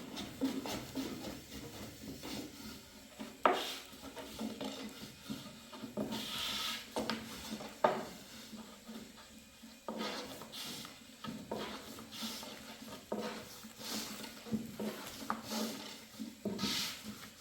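Irregular scraping and rubbing with scattered sharp knocks, as of things being handled and set down; two knocks, about 3.5 and 8 seconds in, stand out as the loudest.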